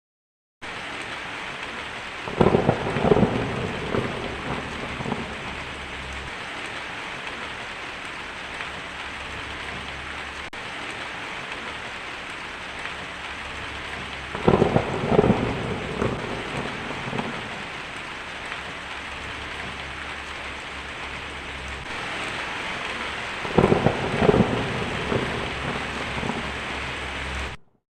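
Steady heavy rain with three thunderclaps, each a sharp crack followed by a few seconds of rumbling, roughly ten seconds apart. The rain starts and stops abruptly.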